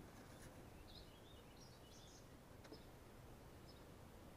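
Near silence: faint background hiss with a few faint, high bird chirps between about one and two seconds in, and a single soft click shortly after.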